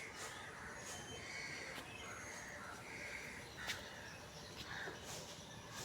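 Birds calling in short separate calls, one every second or so, with a few faint clicks.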